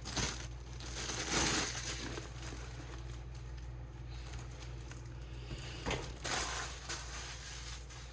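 Packaging crinkling as storage cases are unwrapped by hand, in rustling surges about a second in and again near six seconds.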